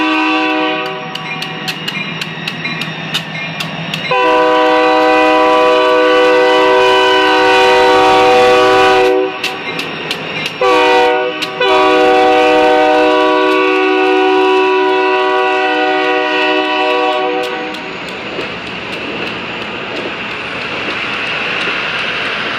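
A locomotive's multi-note chime horn sounding the grade-crossing signal of long, long, short, long blasts as the train pulls through. Wheels click over rail joints and the train rumbles by steadily once the horn stops.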